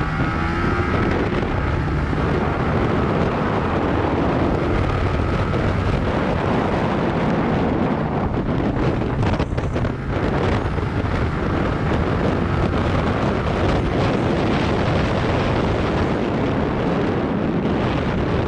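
Yamaha YZF-R15 single-cylinder engine running at steady riding speed, with heavy wind rushing across the microphone.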